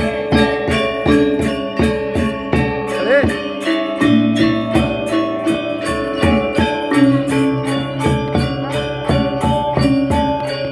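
Balinese gamelan gong ensemble playing: bronze metallophones and gongs ringing in dense interlocking tones over a fast, steady pulse of metal strikes.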